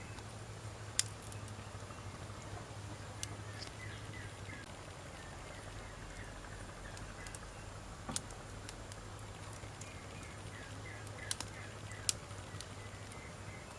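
Wood campfire burning, with sharp single crackles and snaps from the burning wood every second or two over a steady low hum. Faint runs of small chirps are heard in the background.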